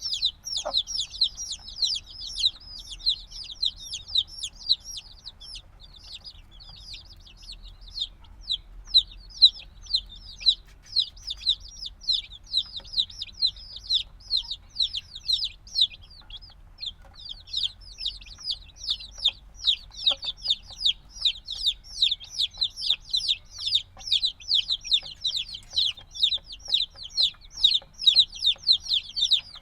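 A brood of chicks a few days old peeping continuously, many short high calls that slide down in pitch, overlapping in a dense chorus. The chorus thins a little in the middle and grows busier again from about 17 seconds in.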